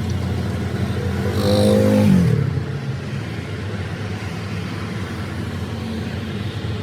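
Engine running steadily, revved briefly about a second in and dropping back to idle just after two seconds.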